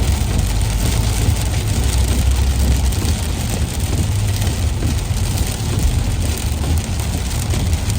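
Rain and highway vehicle noise: a steady hiss of rain over a strong low rumble.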